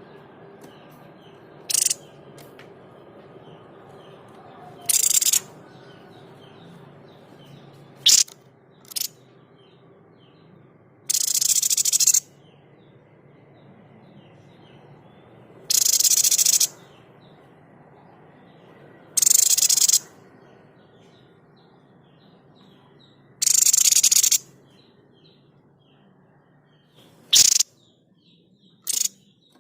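Babbler known to bird keepers as the 'sniper bird' (tepus dada putih) giving its harsh, hissing 'shot' calls: about ten loud bursts a few seconds apart, some short snaps and some lasting about a second. Faint chirping of other birds or insects runs underneath.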